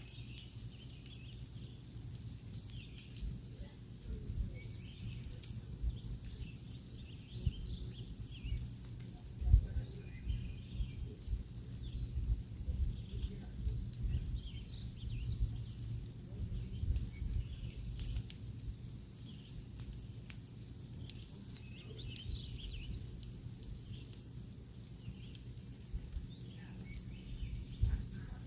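Campfire burning with irregular crackles and pops over a low rumble, one sharp pop about nine and a half seconds in. Birds chirp in the background.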